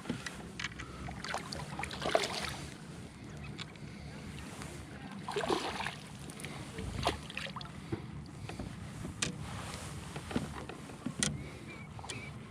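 Water sloshing and splashing around a kayak, with scattered knocks and clicks from the boat and fishing gear, as a hooked bass is fought in toward the kayak.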